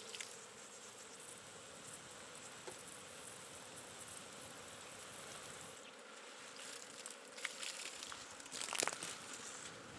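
Swarm of honeybees buzzing steadily while being hived, with a few sharp rustling handling noises near the end.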